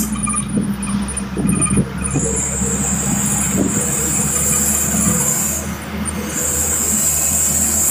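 Truck running along a road, a steady low engine hum with road noise, overlaid from about two seconds in by a steady high-pitched whine that drops out briefly and returns.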